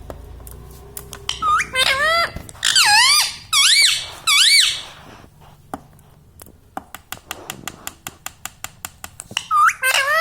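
Parrot giving a string of loud, shrill squawks that swoop up and down in pitch, then a quick run of sharp clicks, about seven a second, and another squawk near the end.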